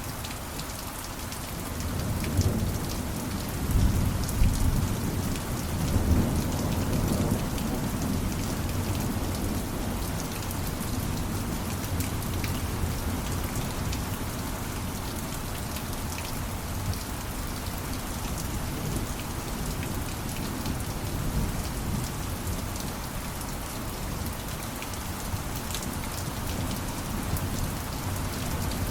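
Steady rain pattering on a surface, with a low rumble of thunder swelling a few seconds in and fading out within a few seconds.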